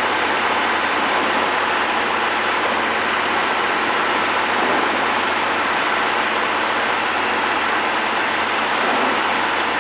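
Steady cabin noise of a Cessna 210D on landing approach: engine and airflow blend into an even rushing hiss with a faint low hum, unchanging throughout.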